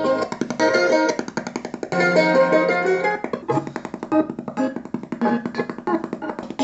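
A song with plucked guitar playing from a Saregama Carvaan Mini's small speaker, repeatedly breaking up and stuttering. The owner thinks the fault is mostly a weak battery that has lost capacity.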